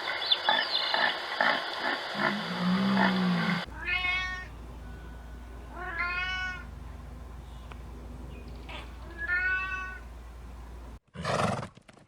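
An animal calling three times, each call a short high cry that rises and falls, a couple of seconds apart. Before the calls there is a few seconds of noisy rustling with clicks and a low hum.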